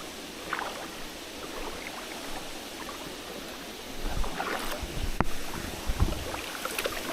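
Mountain stream running over rocks, with irregular low thumps and splashes starting about four seconds in as someone wades in the cold water.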